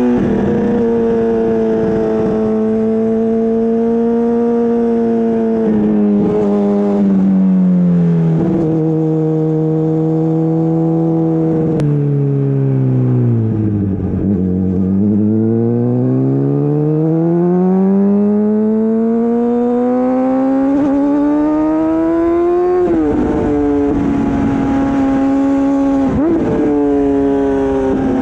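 Honda CBR600RR inline-four motorcycle engine through an Akrapovic exhaust, under way: the engine note holds, then falls steadily to its lowest about halfway as the bike slows. It climbs again as the bike accelerates, with two quick drops in pitch near the end at gear changes.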